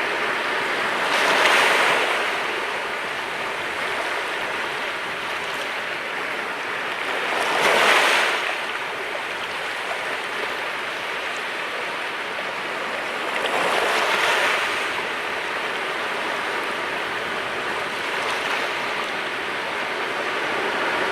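Sea waves breaking in a steady wash of surf, which swells three times, about every six seconds.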